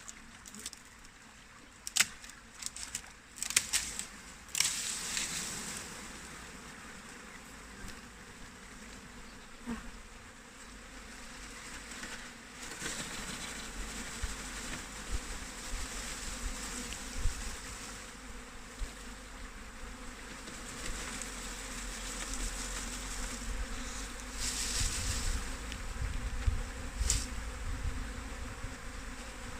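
Honeybee swarm buzzing steadily, a large mass of bees on the wing and clustered together. A few sharp knocks come about two to four seconds in.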